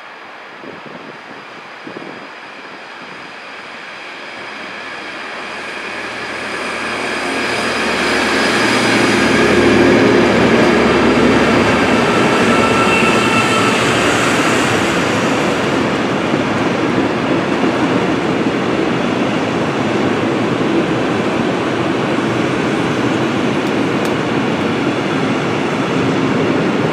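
Container freight train hauled by a LOCON Vossloh DE 18 diesel-electric locomotive approaching and passing. The locomotive's diesel engine grows louder over the first several seconds and passes about ten seconds in. A steady rolling noise of loaded container wagons going by follows.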